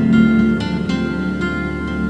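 Steel-string western acoustic guitar improvising slowly, a few plucked notes and chord tones ringing out under heavy added reverb.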